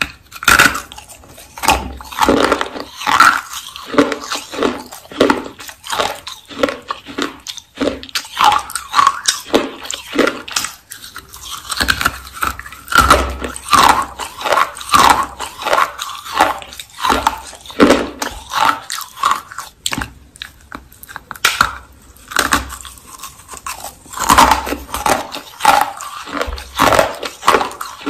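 A person biting into and chewing clay rolls, a dense run of loud dry crunches in an uneven chewing rhythm of about two a second.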